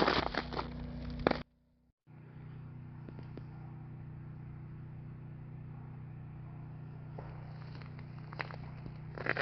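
Footsteps crunching on ice-crusted ground for the first second or so, then a sudden cut to a steady low hum with a few faint clicks, and crunching footsteps again near the end.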